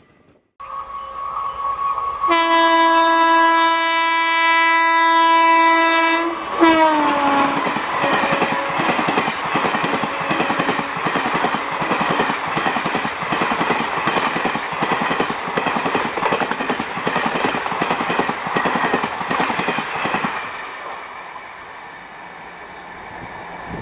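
An Indian Railways WAP-4 electric locomotive at speed sounds one long horn blast, its pitch dropping as it passes, then the Duronto Express coaches rush by with a fast, steady clickety-clack of wheels over the rail joints. Near the end the sound falls away to the quieter rumble of a distant train.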